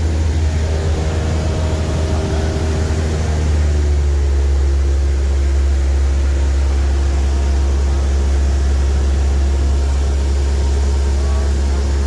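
Small airplane's piston engine droning steadily, heard from inside the cabin, its note shifting slightly about four seconds in.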